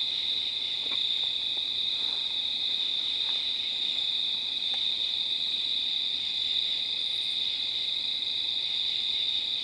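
Steady, high-pitched chorus of crickets chirring in the night woods, unbroken throughout.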